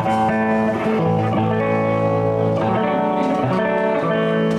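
A live blues band playing, electric guitar to the fore over bass guitar, with long held notes and chords.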